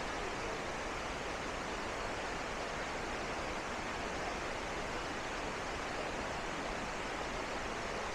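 Steady rush of the waterfall's cascading water, an even hiss without breaks.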